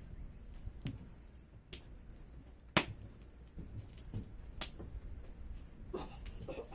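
Wood fire crackling: irregular sharp pops and snaps, the loudest a little under three seconds in.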